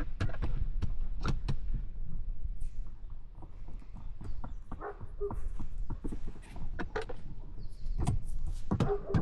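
Irregular knocks and clicks, a couple or so a second, over a steady low rumble.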